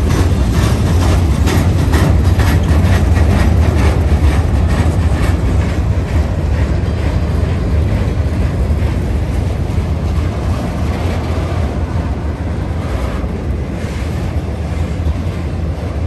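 CSX freight train rolling past on street-running track with a steady low rumble. Its wheels click repeatedly over the rail joints, most densely in the first five seconds.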